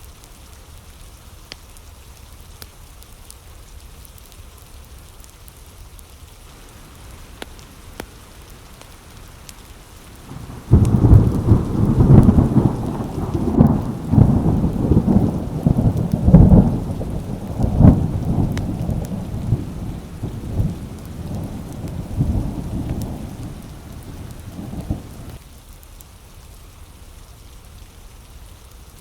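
Steady rain, then about eleven seconds in a sudden loud clap of thunder that rolls on as a long rumble with repeated peaks. The rumble dies away about fifteen seconds later, leaving the rain.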